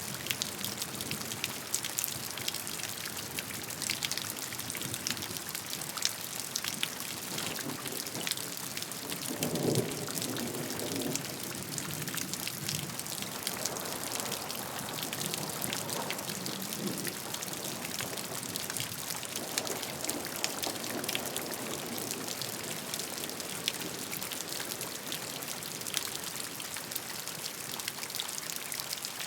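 Steady rain with many individual drops pattering on a surface, and a few heavier swells of lower splashing or water noise about a third of the way in and again past the middle.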